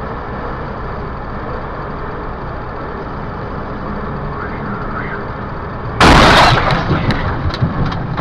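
Steady road and engine noise inside a moving car, then about six seconds in a sudden loud collision impact that fades over a second or so with scattered smaller knocks.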